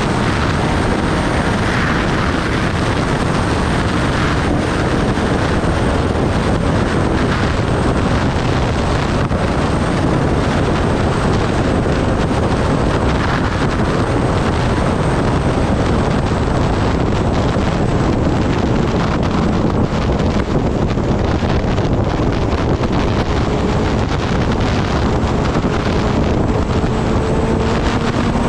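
Kawasaki Ninja ZX-10R ridden at speed: steady wind roar over the microphone, with the inline-four engine note faintly beneath it. Near the end the engine pitch starts to climb as the bike accelerates.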